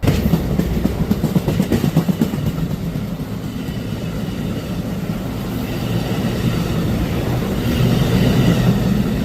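A train passing close by: a steady heavy rumble, with wheels clicking over rail joints, the clicks thickest in the first couple of seconds.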